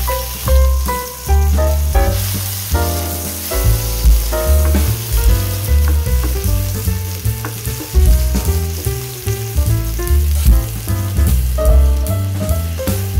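Ginger sizzling in hot oil in a stainless steel wok, stirred now and then with a spatula, under background music with a pulsing bass line.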